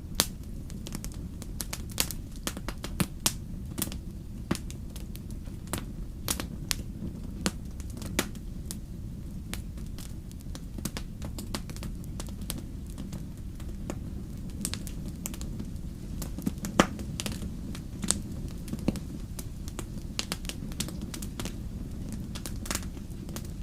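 Wood fire crackling: irregular sharp pops and snaps of burning logs over a steady low rumble of flames, with one louder pop near the middle.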